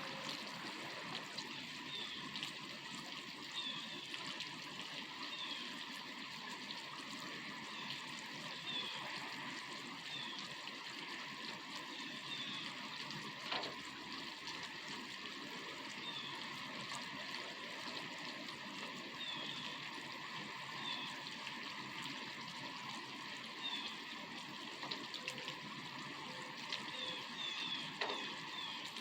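Steady rain with trickling, dripping water and a few sharper drip taps.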